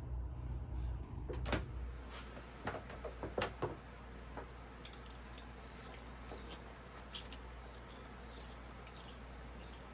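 A low hum that stops about a second and a half in, then a quick run of clicks and knocks from something being handled, then faint high chirping over a quiet background.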